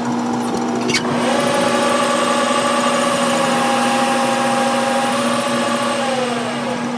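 A workshop machine's motor whining steadily over a constant low hum. It starts after a sharp click about a second in and sags in pitch and fades near the end.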